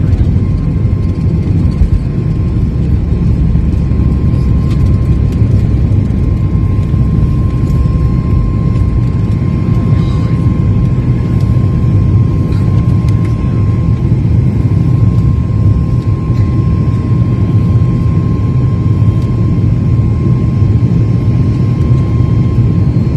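Boeing 737 MAX 8 airliner cabin noise: a loud, steady low rumble of engines and airflow with a faint steady whine above it.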